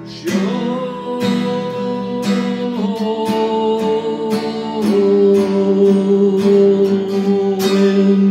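Acoustic guitar strummed in a steady rhythm, with a long held sung note over it that steps down in pitch twice, closing out a song.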